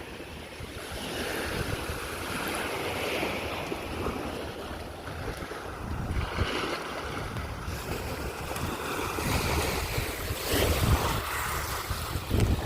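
Ocean waves washing onto the beach in swelling and ebbing surges, with wind gusting on the microphone.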